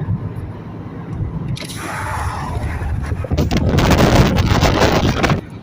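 Steady low rumble with a rushing noise of rain and wind that builds from about two seconds in, is loudest in the last two seconds, then cuts off suddenly.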